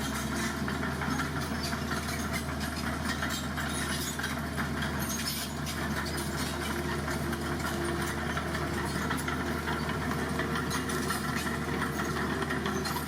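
Dump truck's engine running steadily, with a busy clattering rattle over the hum.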